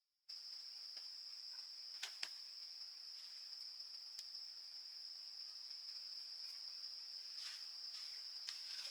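Steady high-pitched drone of forest insects at one constant pitch, starting abruptly about a third of a second in, with a few light clicks scattered through it, more toward the end.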